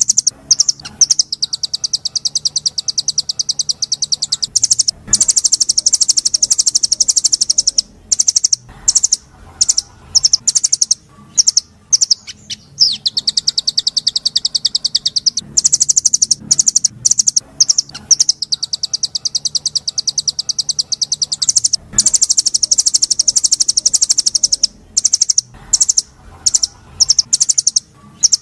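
Recorded songbird song used as a masteran tutor: very rapid, high-pitched trills in rolls of a few seconds each, repeated with short breaks and sharp single chirps between them.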